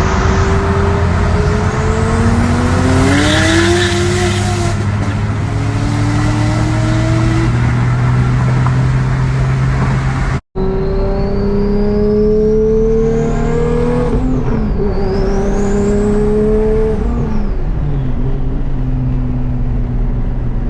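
Turbocharged Nissan 370Z's 3.7-litre V6 pulling hard under wide-open throttle, engine pitch climbing and dropping back at each upshift, with a high turbo whistle rising with the revs in the second half. The sound cuts out for an instant just past the midpoint.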